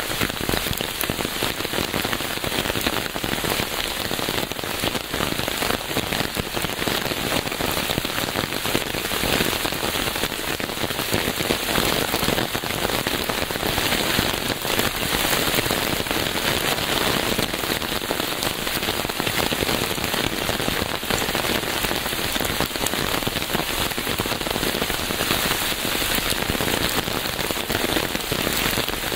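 Steady rain falling and pattering on a surface, a dense even hiss of drops with a fine crackle and no let-up.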